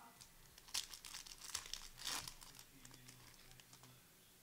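A foil trading-card pack wrapper crinkling and tearing as it is ripped open, a quick run of irregular crackles in the first half that dies away.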